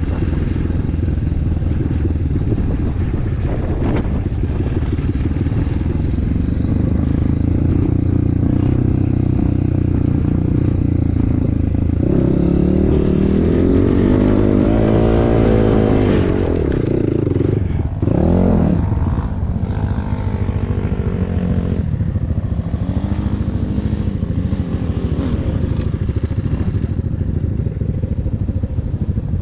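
Enduro motorcycle engine running under way, its pitch rising and falling with the throttle. It revs up and back down about twelve to sixteen seconds in, then gives a short sharp rev about eighteen seconds in.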